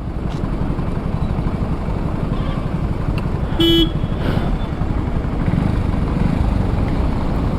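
Motorcycle engine idling in traffic with a steady low putter. A vehicle horn gives one short beep about three and a half seconds in.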